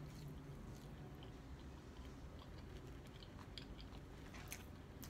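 A person chewing and biting food close to the microphone: faint mouth sounds with scattered small clicks and a few crunches.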